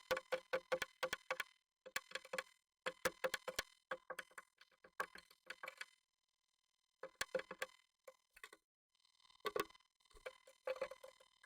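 Japanese tit tapping and pecking at the wood inside a nest box, heard close up: bursts of rapid taps separated by short pauses, with a longer pause around the middle.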